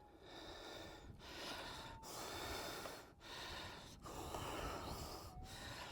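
A person breathing hard from the effort of digging, in and out about once a second.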